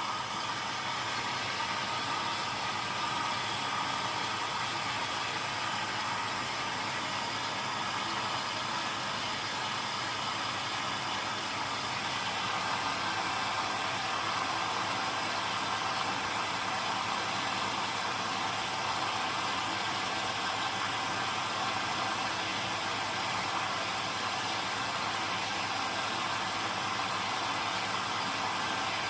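Zanussi DL22 front-loading washing machine running during a 90 °C boil wash, a steady whirring noise with no pauses.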